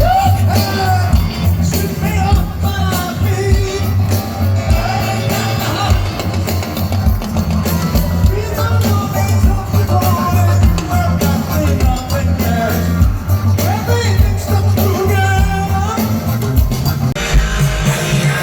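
Rock band playing a song with a lead singer over a steady drum beat and bass.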